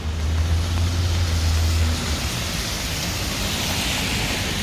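Rain and traffic on wet city streets: a low vehicle rumble that stops about two seconds in, then a steady hiss of rain and wet roads that swells toward the end.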